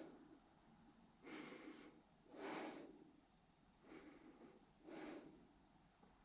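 Faint breathing of a person close to the microphone, soft in-and-out breaths about once a second.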